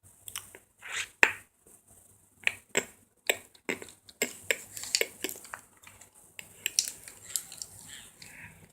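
A series of about fifteen irregular sharp clicks and light knocks of small hard objects, some with a short ring, the loudest about a second in.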